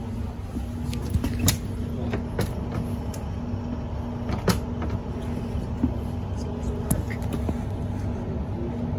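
Interior running noise of a moving Class 156 Super Sprinter diesel multiple unit: a steady underfloor diesel engine drone and wheel rumble under a low hum. A few sharp knocks and rattles come through it.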